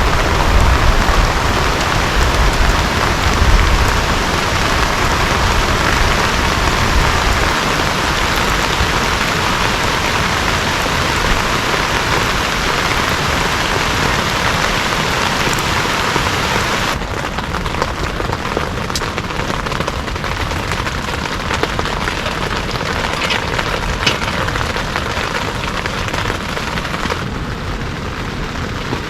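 Heavy rain falling in a steady, dense hiss, with a low rumble underneath for the first seven seconds or so. About seventeen seconds in, the hiss abruptly turns quieter and duller.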